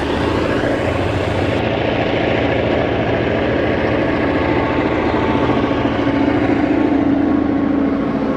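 EMD diesel-electric locomotive engine running hard under load, a loud steady throb with a droning tone that grows stronger about six seconds in.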